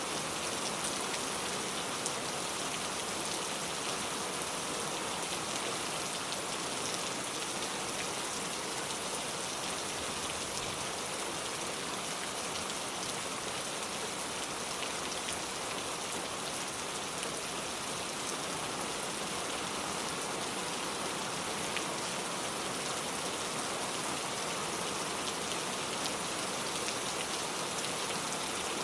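Steady rain falling, an even hiss with fine scattered drop clicks.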